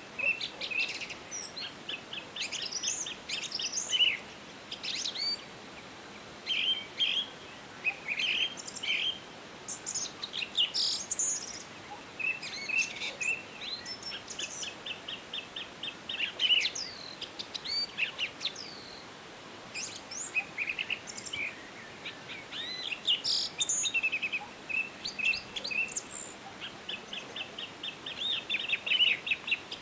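Several songbirds singing at once in a forest chorus: short high chirps and fast trills of rapidly repeated notes, overlapping and coming every second or two, over a soft steady hiss.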